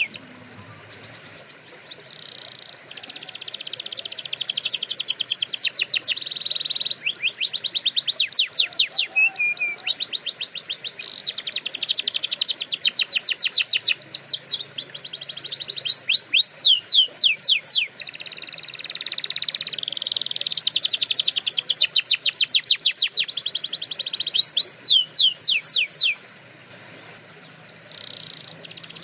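Domestic canary singing: long phrases of rapid trills, each made of quickly repeated high down-sweeping notes, with short breaks between phrases. It is quieter for about the first two seconds and again near the end.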